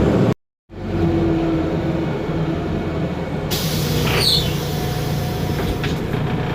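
Otokar Kent LF city bus running: its Ford Ecotorq Euro 6 diesel engine and Voith DIWA automatic gearbox give a steady mechanical drone. The sound cuts out completely for a moment near the start, and a short high squeal comes about four seconds in.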